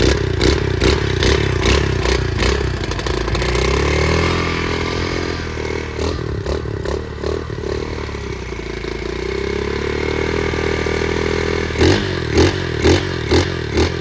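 Pit bike engine running just after a cold start, warming up. Short throttle blips come about two to three a second at the start and again near the end, and the revs rise and fall in between.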